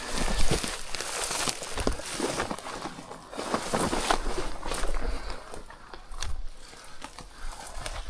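Footsteps crunching and rustling through brush and rocks on a slope, with irregular sharp clicks and scuffs. Wind rumbles on the microphone.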